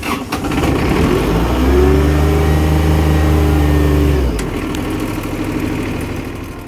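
Suction-type sandblaster blasting, a steady hiss of high-pressure air and sand. An engine-driven air compressor runs underneath, picking up speed about a second and a half in and dropping back after about four seconds.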